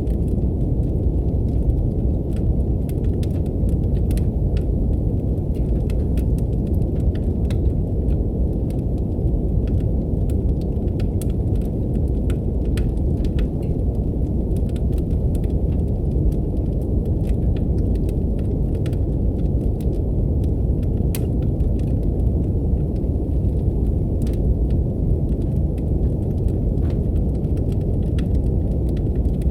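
Brown noise, a steady deep rumbling hiss, layered with the crackle of a wood fire in a fireplace: irregular sharp pops and ticks scattered throughout.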